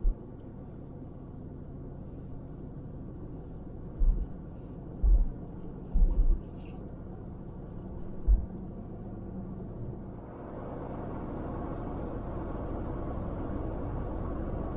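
A vehicle driving, with a steady low road rumble and a few short, deep thumps like bumps in the road. About ten seconds in the rumble grows louder and fuller, then cuts off suddenly.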